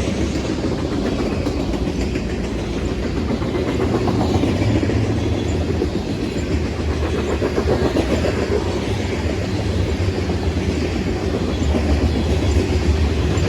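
Freight train cars rolling past on the rails: a steady rumble with wheel-on-rail noise and some clickety-clack.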